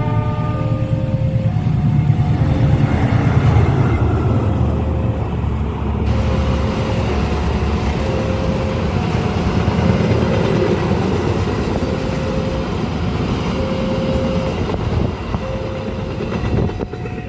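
A train passing at speed over a level crossing, with a heavy, dense rumble of wheels on rails that is strongest in the first few seconds. Over it, the crossing's electronic warning alarm sounds steadily, alternating a low and a higher note about once a second.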